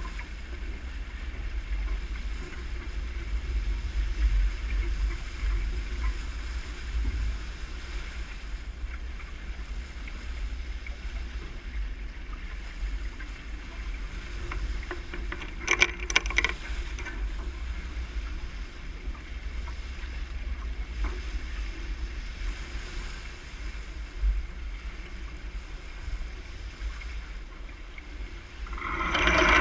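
Sailboat under way: a steady low rumble of wind on the microphone over the wash of water along the hull, with a brief clatter of sharp knocks about halfway through. A louder, different sound swells in just before the end.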